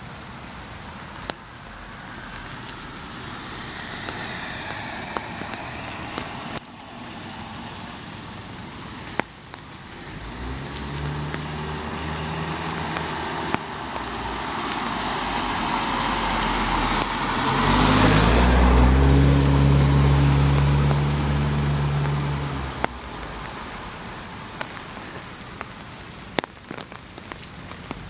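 Steady rain falling, with scattered sharp drips. A motor vehicle's engine is heard about a third of the way in. Past the middle a vehicle passes close by on the wet road, swelling to the loudest point for a few seconds before fading back under the rain.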